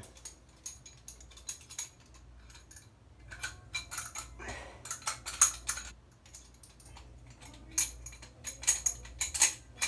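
Irregular metal clicks and clinks from a shower handle-puller tool being adjusted and fitted onto the faucet handle, coming in two busier flurries partway through and near the end.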